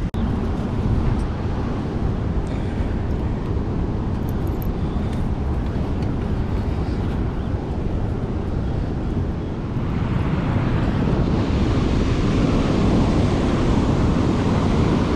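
Steady outdoor noise of wind buffeting the microphone over rushing river water, with no clear events. It grows louder about ten seconds in.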